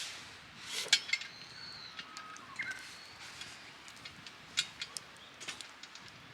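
A few sharp clicks and clinks, the loudest about a second in and another pair a little past the middle, with faint bird calls.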